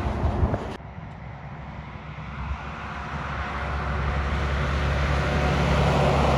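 Passing-traffic noise cuts off sharply about a second in. A heavy truck's low engine drone then builds steadily, growing louder as it approaches.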